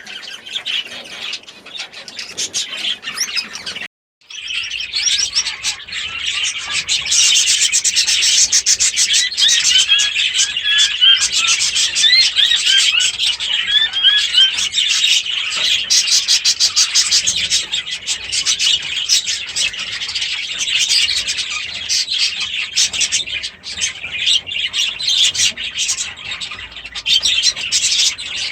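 A roomful of caged budgies and Gouldian finches chattering and chirping, many calls overlapping into a dense, continuous twittering. It breaks off for a moment about four seconds in.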